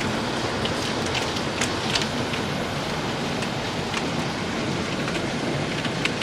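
Small round hailstones falling heavily: a dense, steady hiss with scattered sharp ticks as pellets strike hard surfaces.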